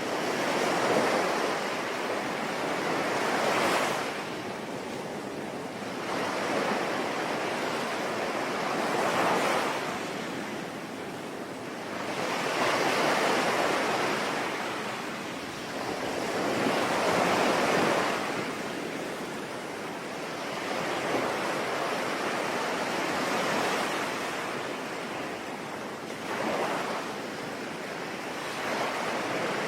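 Sea waves breaking and washing ashore, swelling and fading every four to five seconds, over a steady hiss of falling rain.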